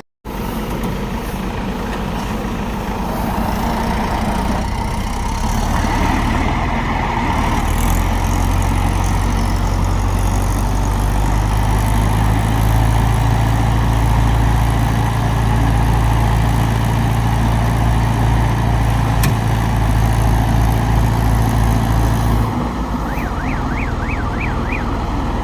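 Diesel engine of heavy farm machinery running steadily, growing louder for a stretch and then dropping back shortly before the end. Near the end comes a quick run of short, high, warbling chirps.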